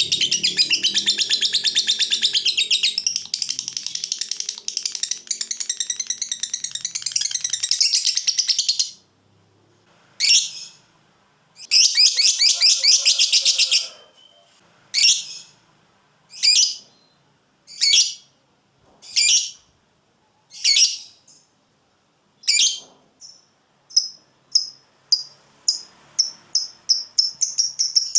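Lovebird giving its long chattering 'ngekek' call: a fast, continuous high rattling chatter for about the first nine seconds. It then breaks into shorter bursts and single calls a second or two apart, quickening into rapid short notes near the end.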